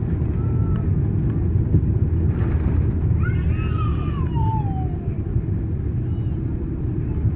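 Steady low rumble of an airliner heard from inside the cabin after landing. About three seconds in, a faint voice rises briefly and then falls in one long sliding tone.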